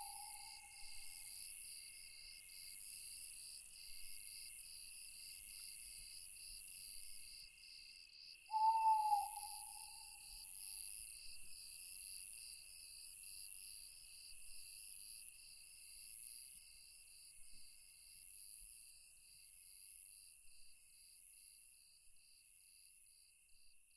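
A single owl hoot about nine seconds in, short and curving in pitch, over a steady, evenly pulsing high-pitched chorus of night insects.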